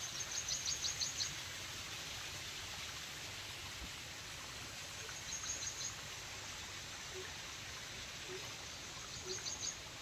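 A bird calling in three short bouts of quick, high, repeated notes, about five a second: the first bout at the start, a shorter one in the middle and another near the end. Under it runs a steady outdoor hiss.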